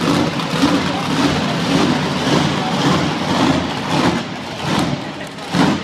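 Monster truck engine running hard, its loud, dense sound surging up and down repeatedly as the throttle is worked.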